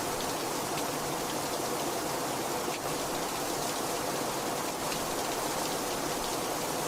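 Heavy rain falling steadily, a dense even hiss of rainfall with faint individual drop ticks on a surface.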